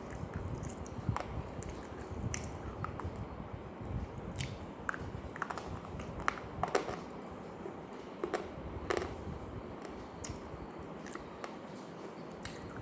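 Close-up biting and chewing of something dry and crunchy, with irregular sharp crunches and crackles every second or so.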